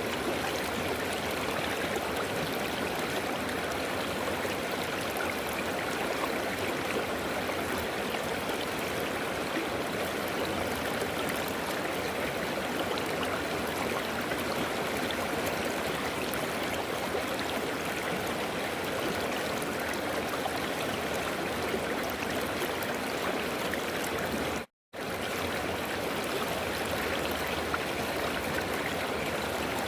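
River water flowing steadily over rocks, an even rushing and babbling. It cuts out completely for a split second about 25 seconds in.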